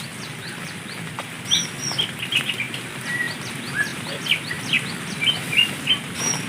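Small birds chirping: a quick run of short, high, falling chirps throughout, with louder, sharper chirps from about a second and a half in, over a steady outdoor background hiss.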